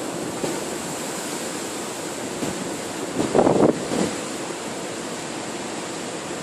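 Storm-force wind, a steady rush with one louder gust about three seconds in.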